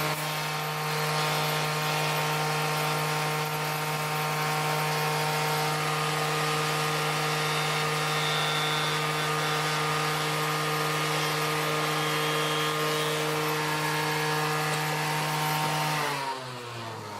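Electric woodworking power tool running at a steady speed, then switched off about a second before the end, its pitch falling as the motor spins down.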